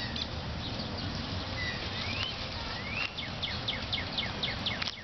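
Wild birds singing: rising whistled notes, then from about three seconds in a quick run of short falling chirps, over a steady low rumble.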